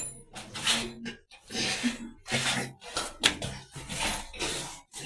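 Repeated rasping strokes, about one and a half a second, over a low steady hum.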